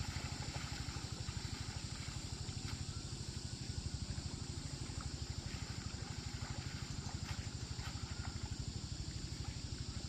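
A small engine running steadily with a fast, even low pulse.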